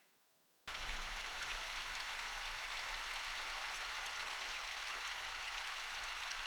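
Steady rain falling in a forest, an even hiss of drops that cuts in abruptly less than a second in after a brief near-silent gap.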